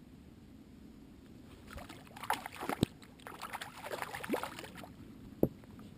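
Water splashing and sloshing in irregular bursts, typical of a hooked fish thrashing at the surface beside the boat as it is brought in, with two sharp knocks, one about three seconds in and one near the end.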